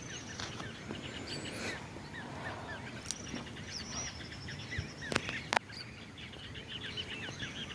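Several wild birds chirping and calling at once, quick short notes overlapping throughout, with a few sharp clicks about halfway through.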